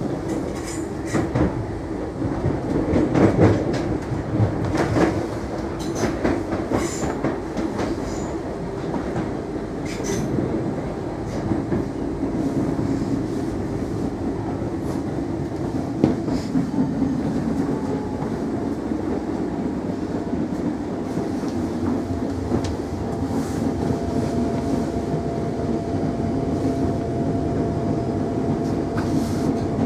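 Class 313 electric multiple unit heard from inside the carriage as it runs into a station: wheels clacking over rail joints and points during the first half, then a steadier rumble with a faint steady whine near the end as it slows to a stop at the platform.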